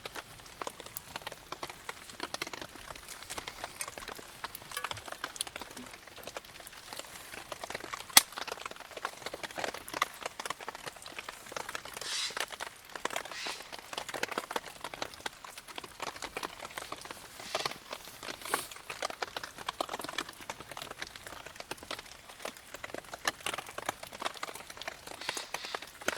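Wood campfire crackling with irregular small pops, and one sharp, loud pop about eight seconds in.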